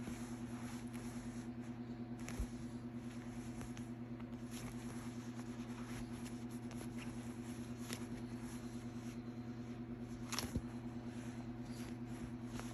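Cat purring steadily close up, a continuous low rapid rumble, with a couple of soft knocks, one about two seconds in and one near the end.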